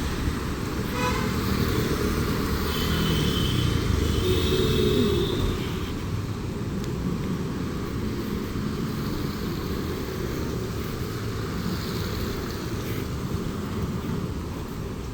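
Steady road traffic passing on a city street, with a short vehicle horn toot about a second in and a higher tone a few seconds later.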